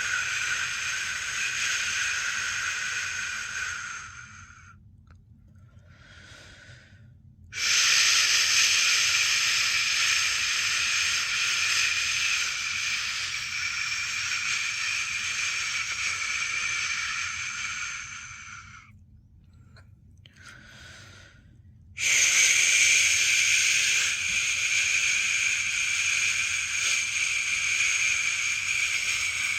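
A person's long, steady shushing ("shhh") for lulling a newborn to sleep, each shush held for well over ten seconds. It breaks off twice for a few seconds, with a faint breath in each pause, then starts again abruptly.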